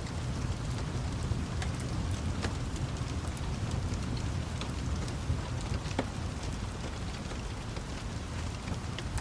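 Steady rain hiss with a crackling wood fire, scattered sharp pops over a low rumble.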